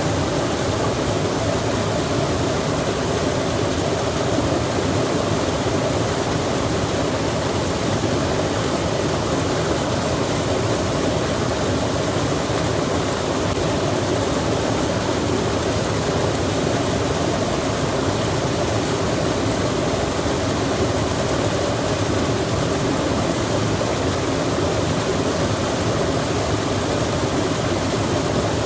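Running water rushing steadily, an even, unchanging noise with most of its weight low in the range.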